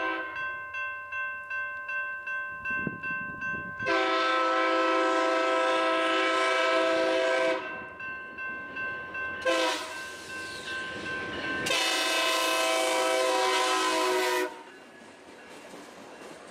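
Passenger train horn sounding for a road crossing: a long blast, a brief one, then another long blast, over the steady ringing of the grade-crossing bell. Near the end the horn stops and the train's rumble carries on as it passes.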